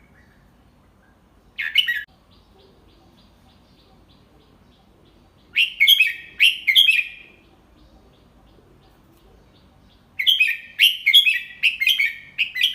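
Red-whiskered bulbul singing: a short burst about two seconds in, a phrase of a few quick notes around six seconds, then a longer run of quick notes from about ten seconds on.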